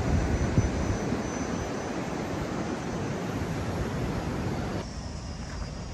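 Indian Ocean surf and wind making a steady rushing noise. About five seconds in it cuts abruptly to a quieter, duller background.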